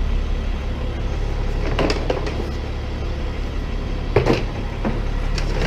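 A tow truck's engine idling with a steady low rumble, under a few knocks and clatters of scrap car parts being handled, one about two seconds in and another about four seconds in.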